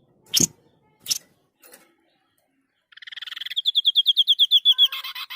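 White-breasted babbler singing: a rapid, even trill of high notes, about ten a second, that ends in a short buzzy phrase. Before it come a few sharp clicks.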